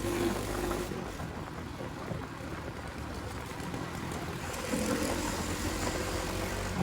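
Motorcycle engine running steadily with a low, even hum.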